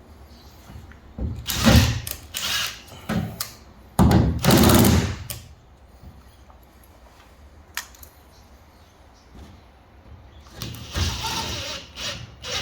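Work on drywall in short bursts: a few brief noisy strokes with knocks, the longest lasting about a second about four seconds in, then a single sharp click and another burst near the end, as holes are made to find the framing behind the board.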